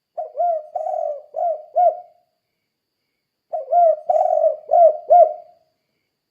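Spotted dove singing the cooing song that Indonesian bird keepers call 'kuk 2': two phrases of about four low coos each, a little over a second apart.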